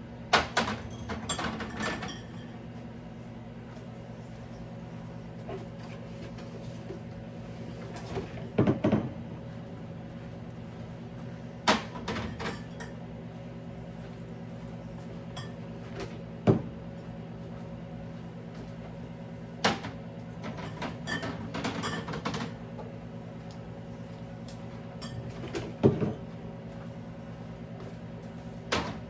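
Household items being handled while a refrigerator is cleaned out: scattered knocks and clatter in about six short bouts, one single sharp knock in the middle, over a steady low hum.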